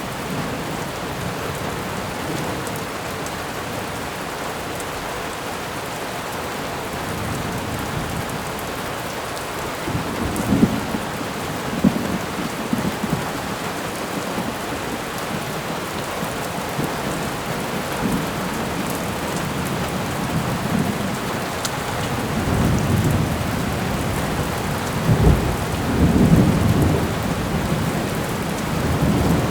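Steady heavy rain hissing, with rolls of thunder rumbling low about a third of the way in and again, louder, in the last few seconds.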